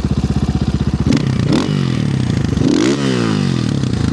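Orion RXB250XL dirt bike's single-cylinder 250 cc engine idling with an even putter, then revved twice: a short blip about a second in and a longer rev near three seconds that rises and falls back toward idle.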